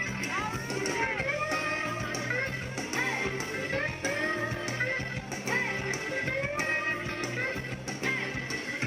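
Live country band playing an instrumental break: a lead guitar solos in bending, gliding notes over steady bass and drums.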